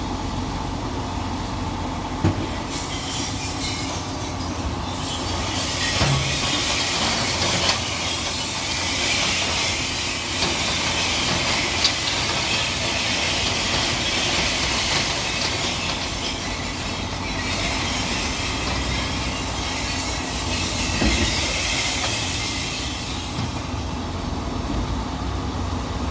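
MAN TGS glass-collection truck at work: a steady engine rumble with a hissing rush through the middle stretch, and several sharp knocks.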